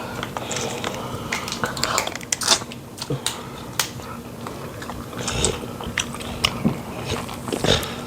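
Close-miked eating sounds: chewing and wet lip smacks, with scattered small clicks and smacks throughout.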